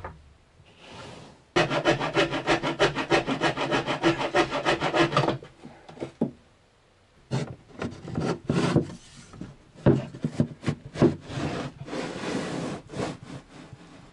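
Rapid rasping and scraping on wood: a dense, even run of fast strokes for about four seconds, then a pause and scattered shorter scrapes and knocks.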